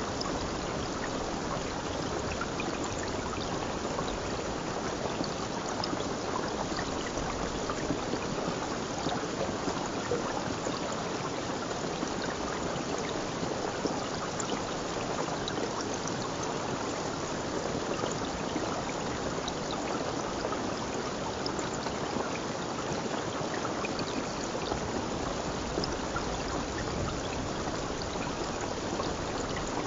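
A stream running steadily, its water rushing and trickling without a break.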